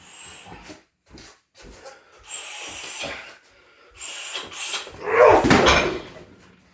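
Shin kicks landing one after another on a hard rubber car tyre mounted on a heavy water-based boxing stand, with short hissing sounds between the strikes. The loudest hit comes about five seconds in.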